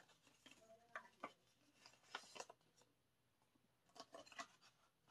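Faint rustling and a few light taps of paper and card being handled as an album's contents are slid out of their envelope.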